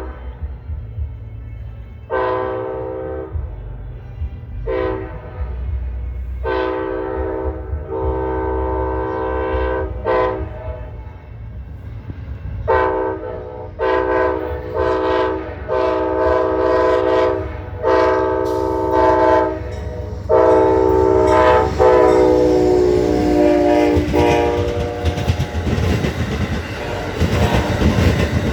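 Amtrak GE Genesis P42DC locomotive approaching at speed and sounding its horn in a series of short and long blasts over a low engine rumble. The last long blast drops slightly in pitch as the locomotive passes, and the rush and clatter of the wheels on the rails takes over near the end.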